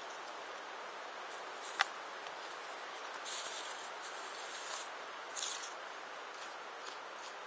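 Wood campfire burning with a steady low hiss, one sharp crackling pop about two seconds in, and two short hissing spurts in the middle.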